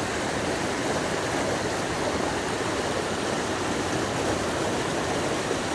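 Fast-flowing stream water rushing steadily over rocks just above a waterfall, with a strong current.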